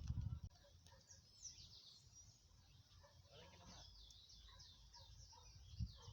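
Faint, high-pitched bird chirps repeating in quick short notes, each falling in pitch, with a couple of low thumps at the start and near the end.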